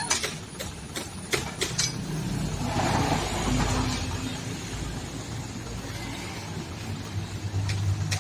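Dump truck's diesel engine running steadily, with a few sharp clicks in the first two seconds and a louder rushing swell about three seconds in.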